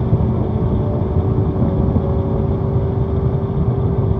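Vehicle cruising steadily along a road: an even engine hum mixed with wind and tyre noise, with no change in speed.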